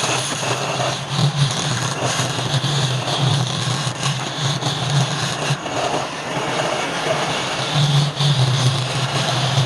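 Wood lathe running with a tool working the spinning palm wood: a steady hiss over a low hum that swells and eases irregularly.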